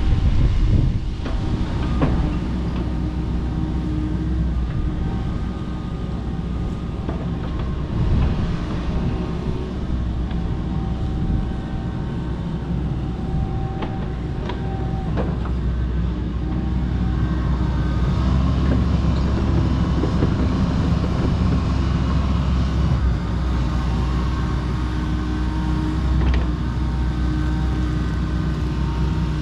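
Kobelco SK85 MSR 8-ton excavator running steadily while it works, with a few sharp knocks and cracks scattered through.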